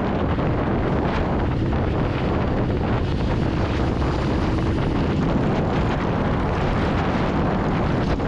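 Steady heavy wind rush on the microphone of a motorcycle riding at speed, with a low rumble underneath.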